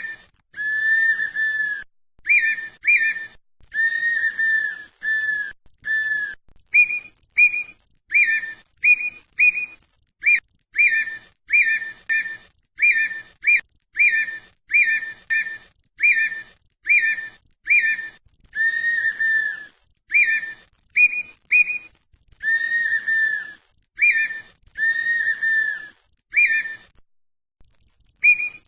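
Red-winged tinamou (perdiz) calling: a long series of clear, flute-like whistles, some drawn out and level, others short and upslurred, about one or two a second. Near the end there is a pause of about a second and a half before the whistling resumes.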